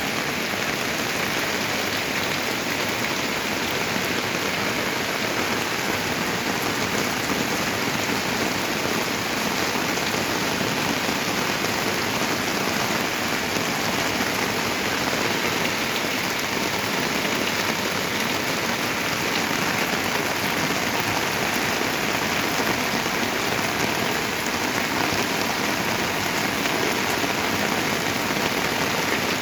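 Heavy rain pouring steadily, an even hiss of rain hitting the ground and surfaces.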